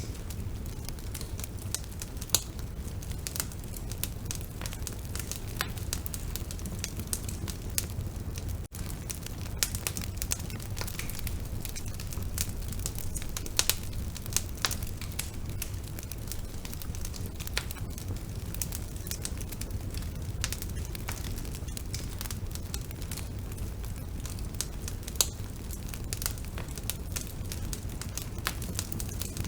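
Bonfire burning: a steady low rumble of the flames with frequent sharp crackles and pops, a few of them louder than the rest.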